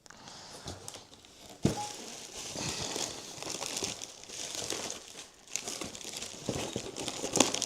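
Packaging crinkling and rustling as parts are handled at a workbench, with irregular small clicks and one sharp knock about two seconds in.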